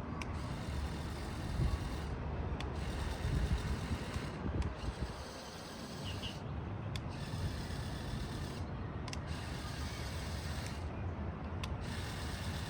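Motorized LEGO Technic 42143 Ferrari Daytona SP3 driving on its two electric motors: a steady rumbling mechanical noise from the motors, plastic gearing and tyres, broken by a few short clicks.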